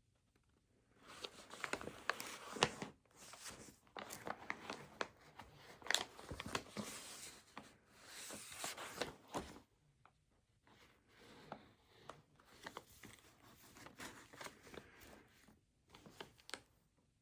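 Rustling and crinkling from things being handled, dotted with small sharp clicks and taps. It starts about a second in, pauses briefly around the middle, and stops sharply near the end.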